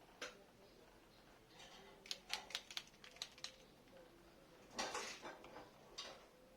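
Light metallic clicks and clinks in a quick run, then a louder clatter about five seconds in and another about a second later: hand tools or small metal parts being handled.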